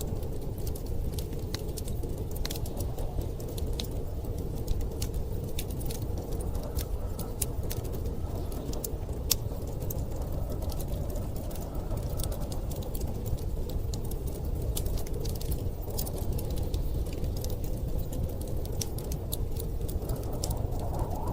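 Wood fire crackling, with many sharp irregular pops and snaps over a steady low rush of storm wind.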